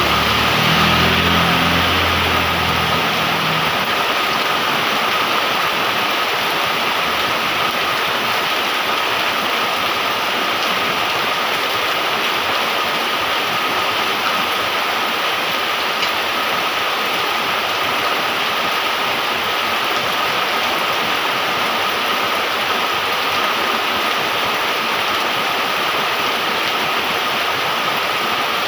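Heavy rain falling steadily in a downpour. A low rumble fades out in the first few seconds.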